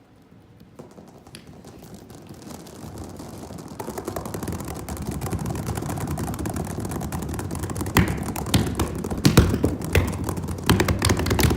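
A group of people imitating a rainstorm with their hands: a soft rubbing and pattering hiss that grows steadily louder, with sharp hand strikes starting about eight seconds in and coming thicker near the end.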